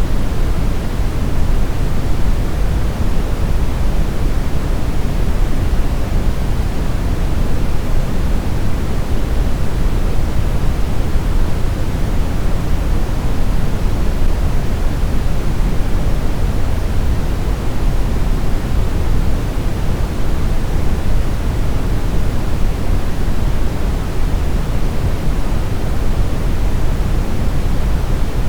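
Steady synthetic brown noise: a deep, even rumble without any tone or rhythm, strongest in the bass and falling away toward the treble, unchanging throughout.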